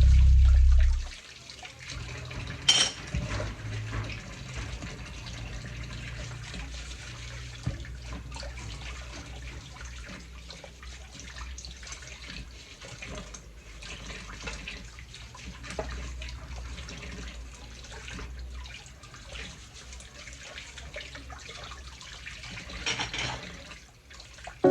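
Background music cuts off about a second in, then water runs from a tap into a sink, with small splashes and clinks of washing.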